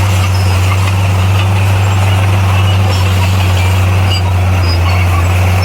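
Bulldozer's diesel engine running with a steady, unchanging low drone.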